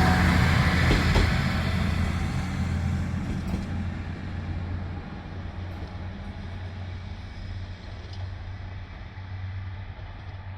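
A train's low rumble fading steadily as it moves away, with a few sharp rail clicks in the first few seconds.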